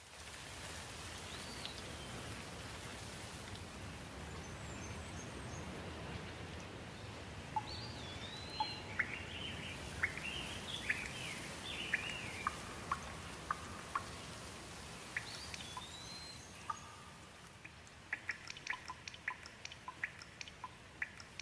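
Steady rush of flowing water, with small birds calling over it: swooping, whistled calls through the middle and a run of quick, sharp ticks near the end.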